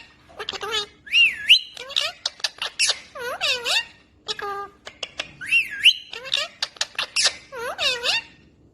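A pet parrot chattering and whistling: quick runs of clicks and chirps mixed with gliding whistled notes, with similar phrases repeated. There is a short break about four seconds in, and the calls trail off near the end.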